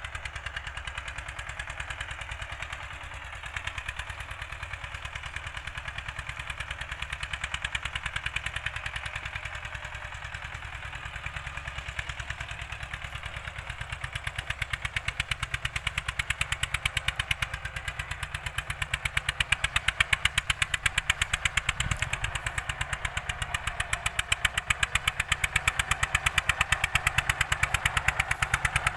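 Old-model Eicher tractor's diesel engine running steadily with a fast, even chugging while working a field on cultivation, getting louder partway through. A brief knock about 22 seconds in.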